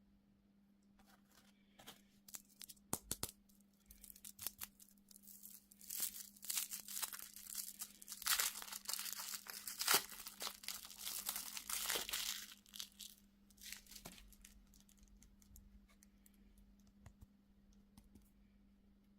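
Candy packaging crinkled and torn open by hand. Scattered crackles build into a dense stretch of rustling and tearing in the middle, then die away to a few last crinkles.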